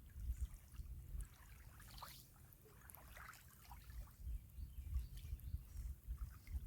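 Small river waves lapping and trickling at the shore, with an uneven low rumble of wind on the microphone.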